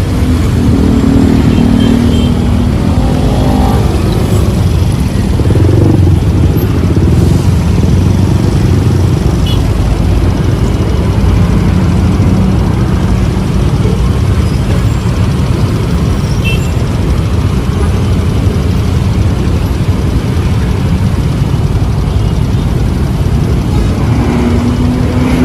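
Road traffic, motor vehicle engines over a heavy, continuous low rumble. A steady engine hum stands out near the start and again near the end.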